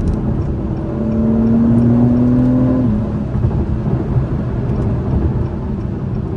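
2021 Acura TLX Type S's turbocharged 3.0-litre V6 pulling under acceleration, its pitch rising gently, then dropping suddenly about three seconds in as the automatic transmission upshifts on its own. Steady engine and road noise follow.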